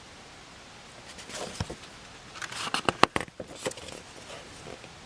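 Pages of a picture book being turned and handled: a run of light clicks and paper rustles from about a second in to nearly four seconds.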